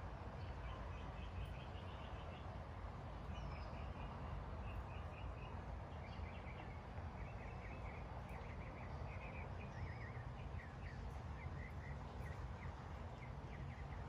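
Birds chirping in quick series of short notes, with a few higher down-slurred calls, over a steady low outdoor rumble.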